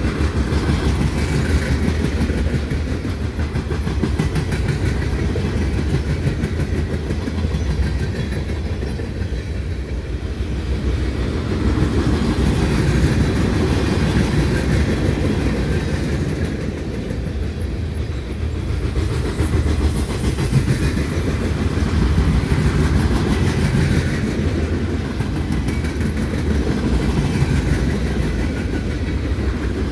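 Loaded freight-train flatcars rolling steadily past close by, their steel wheels rumbling and clacking over the rails.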